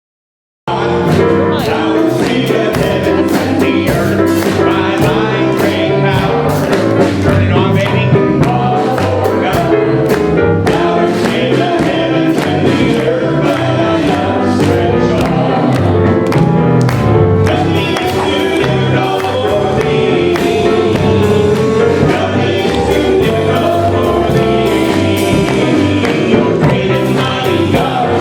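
Gospel music with singing and a steady beat, starting abruptly about a second in.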